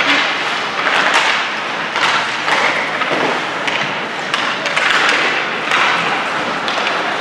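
Ice hockey play: skates scraping and carving on the ice in a run of short bursts, with scattered knocks and thuds of sticks and puck.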